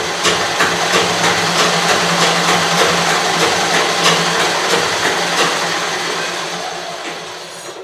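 Treadle sewing machine running fast with no thread or fabric: a steady, rhythmic clatter of the needle and drive mechanism over a low hum. It slows and dies away near the end as the machine is stopped.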